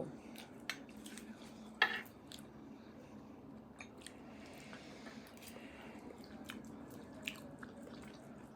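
A person chewing food close to the microphone: soft, wet mouth clicks and smacks scattered throughout, with one louder click about two seconds in.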